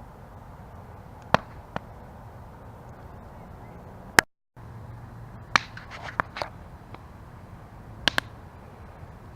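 Campfire burning with a low steady rush, and sharp crackles and pops from the wood, about a dozen scattered through, some in quick runs of two or three. The sound drops out completely for a split second about four seconds in.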